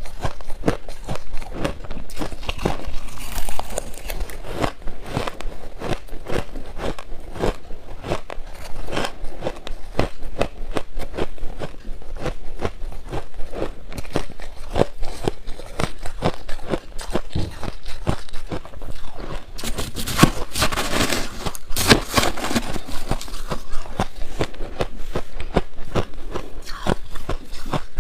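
Shaved ice being bitten and chewed in a steady run of crunches, heavier and denser about twenty seconds in.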